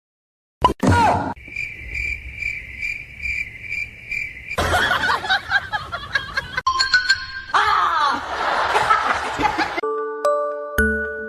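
Clip audio with a pulsing high-pitched beep for about three seconds, then bursts of laughter and voices, ending in a chiming mallet-percussion music jingle near the end.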